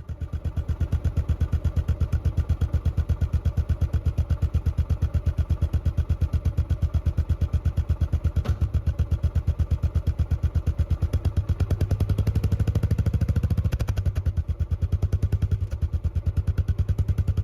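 Royal Enfield Classic 500's single-cylinder engine idling with an even, rapid thump, several beats a second; the beat grows a little heavier for a couple of seconds past the middle.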